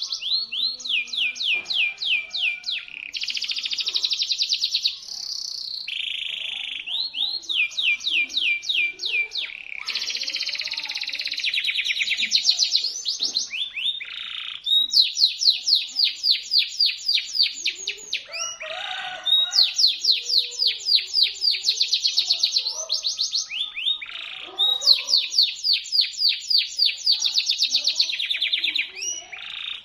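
Domestic canary singing sharp, high-pitched song: long runs of fast repeated notes, one trill after another with only short breaks between them.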